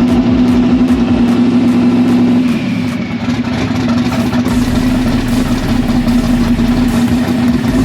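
Twin-turbo 1968 Dodge Dart's engine running at a steady speed, with a regular low pulsing for the first couple of seconds and a brief dip in level about two and a half seconds in.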